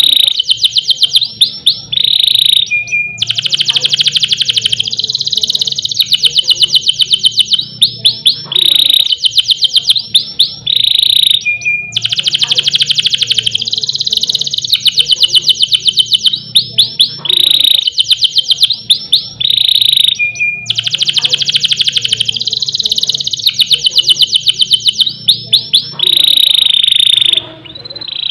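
Domestic canary singing loudly: long, very fast rolling trills (the 'ngerol' roll) several seconds at a time, alternating with runs of sharp, quick sweeping notes. The same song phrase comes round about three times.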